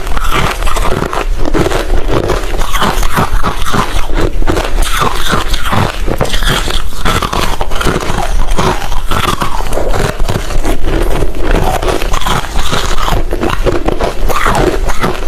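Hard refrozen crushed ice being chewed, a rapid, continuous crunching close to the microphone.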